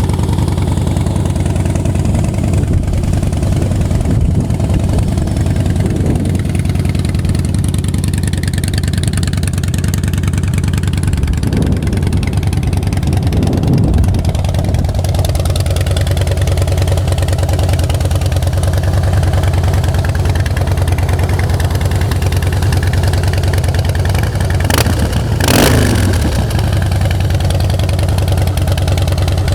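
Harley-Davidson Twin Cam 96 V-twin with Vance & Hines exhausts idling steadily, with brief throttle blips about halfway through and again near the end. It starts readily and runs smoothly.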